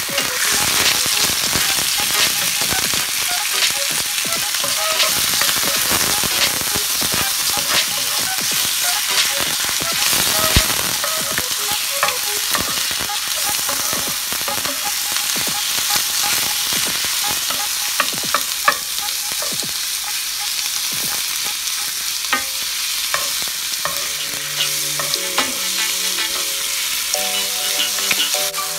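Raw chicken pieces sizzling in hot oil with chopped garlic in a nonstick frying pan, while a wooden spatula stirs and pushes them around, adding frequent light taps and scrapes against the pan.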